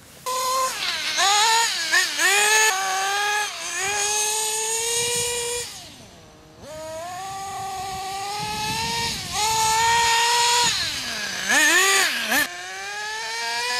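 Radio-controlled model car's motor revving, its pitch repeatedly swooping down and back up as the throttle is worked. It drops back to a quieter low note about six seconds in, then climbs again.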